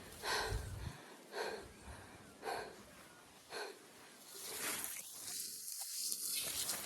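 A person pushing through tall grass on foot: short rustling swishes about once a second, then a longer, steadier rustle of grass over the last two seconds.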